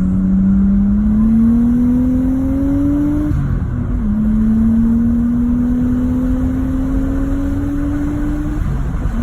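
Nissan R34 Skyline's turbocharged straight-six, with an aftermarket exhaust, pulling as the car accelerates: the engine note rises, drops at a gear change about three seconds in, then climbs again through the next gear until another shift near the end.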